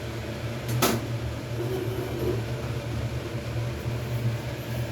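Steady low hum of a running fan-driven appliance, with a single sharp click or knock about a second in.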